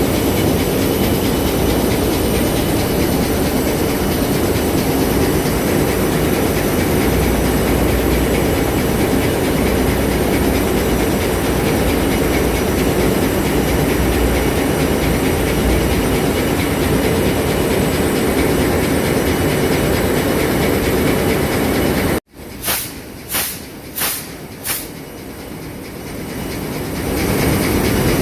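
Ship's main diesel engine running, a loud, steady machinery noise. About 22 seconds in it cuts off abruptly, four short sharp bursts follow at roughly two-thirds of a second apart, and then the engine noise builds back up.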